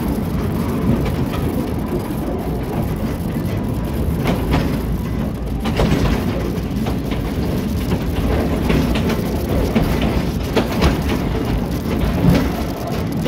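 Narrow-gauge forest railway train running along the track, heard from the cab: a steady rumble with scattered sharp clicks and knocks from the wheels on the rails.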